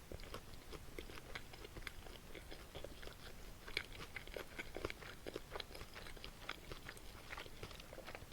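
Close-miked eating: chewing and mouth sounds from jokbal (boneless pork feet) and spicy buckwheat noodles, with many short, irregular wet clicks and smacks.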